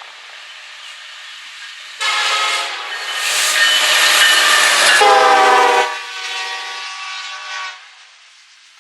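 Diesel locomotive's multi-chime air horn sounding loudly over the rumble of a train. The horn starts suddenly about two seconds in, drops in pitch around the middle, and stops shortly before the end.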